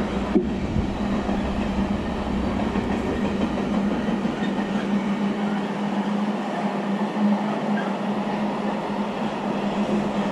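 Container freight train wagons rolling past on the rails: a steady running noise of wheels on track with a constant low hum, and a single sharp knock about half a second in.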